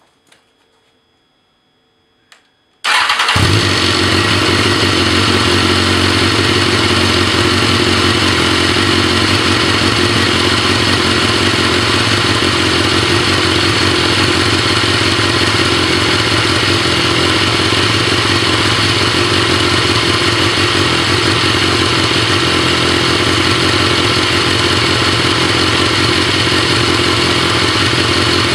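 A 2012 BMW S1000RR's inline-four engine, already warmed up, starts about three seconds in and then runs steadily through its stock exhaust, one of the loudest stock exhausts on a bike.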